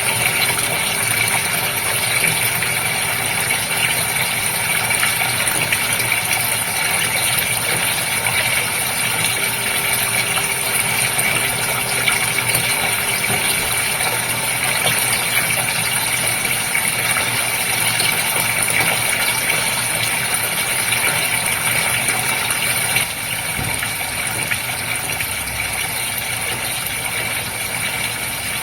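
Goldfish aquarium's pump running with a steady hum and hiss of moving water, turning a little quieter near the end.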